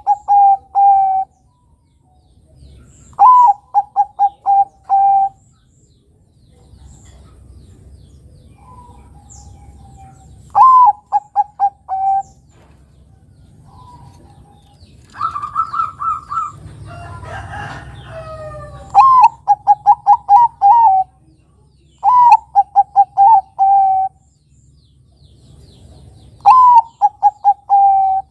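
Zebra dove (Bangkok-type perkutut) cooing. Each phrase opens with a note that drops in pitch, then runs into a quick string of short, even cooing notes. About six phrases come every three to four seconds, and near the middle there is a higher, rougher run mixed with other chirps.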